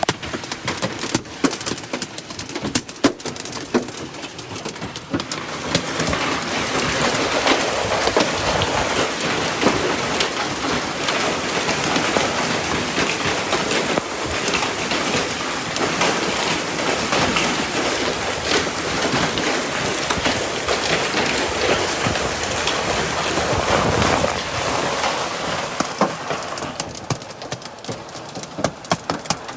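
Hail and heavy rain pelting down, a dense clatter of stones striking hard surfaces. It grows heavier a few seconds in and eases near the end.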